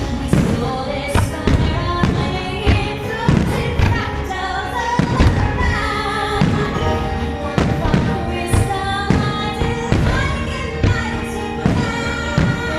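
Fireworks display set to music: a show soundtrack with sung and held melodic lines plays over repeated firework shell bursts, a bang roughly every second or so.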